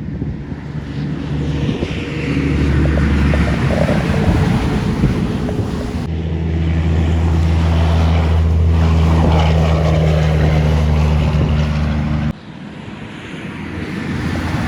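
Heavy trucks' diesel engines running as they drive past, a steady low engine note with road noise. The sound changes abruptly twice as one truck's sound gives way to another's.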